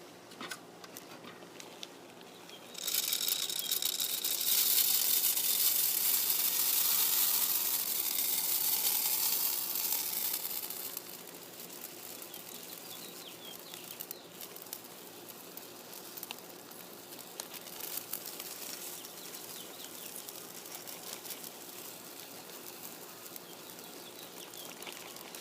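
Birdseed pouring from a bag into a bird feeder: a loud hissing patter of seed that starts about three seconds in and lasts about eight seconds, then drops to a quieter trickle and rattle of grains.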